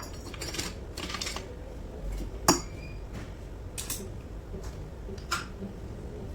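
Metal gearbox parts and hand tools clinking and knocking as they are handled during a manual transmission overhaul, with scattered light clicks and one sharper ringing metallic clink about two and a half seconds in.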